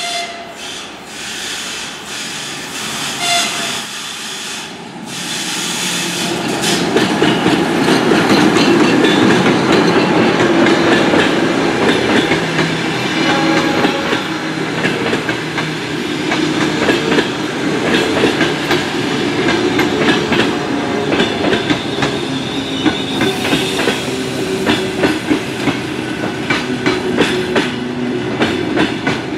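ChS2K electric locomotive sounding a short horn note as it approaches, then running past close by with its passenger coaches. The sound gets much louder about six seconds in as the train arrives. The wheels clatter over rail joints in a rapid clickety-clack while the coaches roll by.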